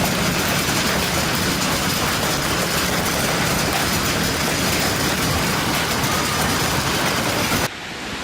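Hailstorm: a dense, steady clatter of hailstones pelting down. Near the end it cuts off abruptly to a quieter steady rushing noise.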